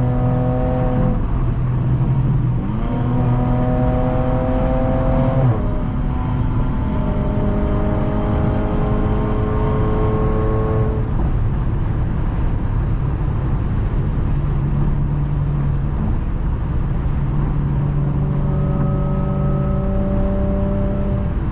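Straight-piped Audi's engine and exhaust pulling hard through the gears. The pitch climbs slowly in each gear and drops at upshifts about a second in, about five seconds in and near the middle, then runs steadier at speed, over a constant road rumble.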